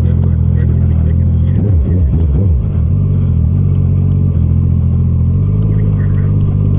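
Motorcycle engine running steadily at low revs, with a brief wavering rise and fall in pitch about two seconds in.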